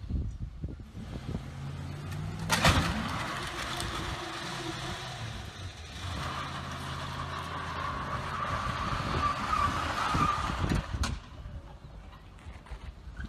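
Car engine and road noise with a steady hum. A loud, sharp bang comes about two and a half seconds in, and another sharp knock near the end.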